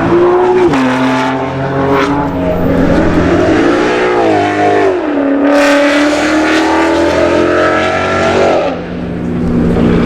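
Sports car engine revving and accelerating, its pitch climbing and falling several times over another engine running steadily underneath. The revving engine drops away about a second before the end.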